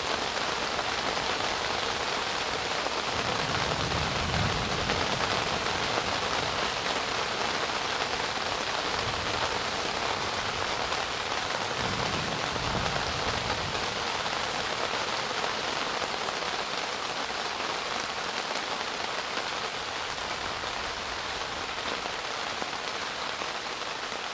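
Rain falling steadily in a thunderstorm, a constant even hiss.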